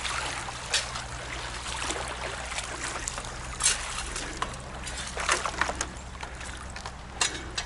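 River water trickling and flowing, with scattered short crunches and clicks.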